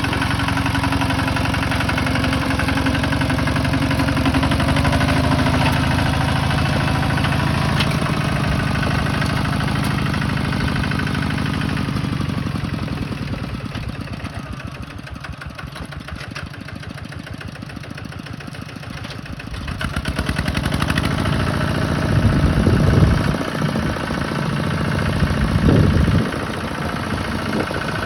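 Tractor engine running steadily, dropping back for a few seconds in the middle, then working harder with two loud surges near the end.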